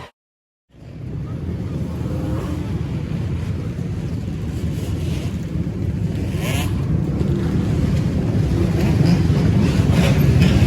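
Wind rushing over the microphone of a moving motorcycle, with the bike running underneath: a steady low rumble that slowly grows louder, starting after a brief dropout.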